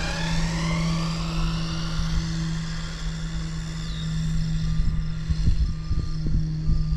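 Electric motor of a Losi 22S 2WD RC drag car whining and rising in pitch over the first couple of seconds as the car is driven off down the road. A steady low hum runs under it, and wind gusts thump on the microphone from about halfway through.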